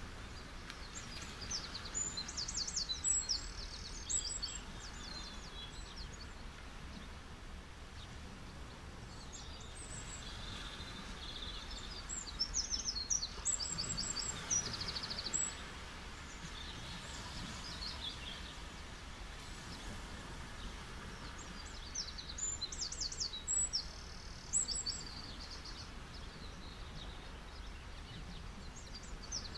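Gentle sea waves on a beach giving a steady, even wash of noise, with a songbird singing three bouts of quick, high, repeated chirps over it.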